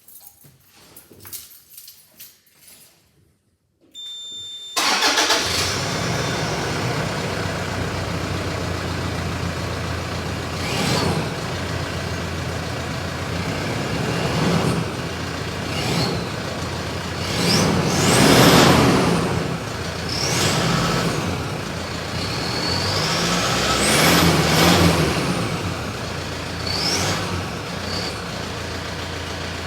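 2014 Toyota Prado's stock 3.0-litre four-cylinder turbo-diesel starting about five seconds in, after a few clicks and a brief tone, then idling with a series of short revs and two longer, higher revs. A high whistle rises and falls with the bigger revs.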